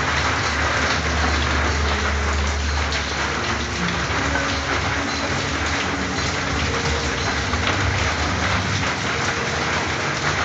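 Steady heavy rain falling on a corrugated metal (tin) roof, an even patter with no let-up, over a low rumble in the first few seconds.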